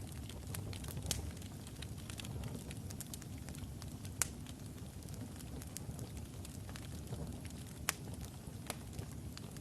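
Wood fire burning logs in a fireplace: a steady low rumble of flames with irregular sharp crackles and pops, the loudest pops at about one, four and eight seconds in.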